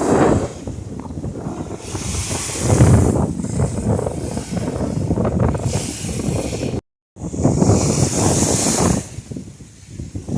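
Wind buffeting the microphone over surf washing on a beach, with hissing surges as waves run up. The sound cuts to silence for a moment about seven seconds in.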